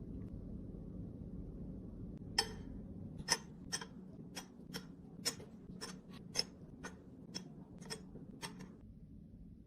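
A series of about a dozen sharp clicks or taps, roughly two a second at an uneven pace, starting a couple of seconds in and stopping near the end, over a low steady hum.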